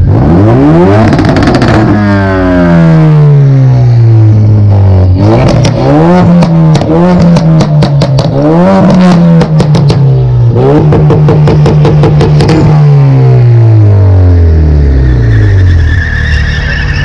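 A car engine revving hard for a burnout, its pitch climbing at the start and then held high, wavering up and down with rapid stuttering cuts, before falling away near the end.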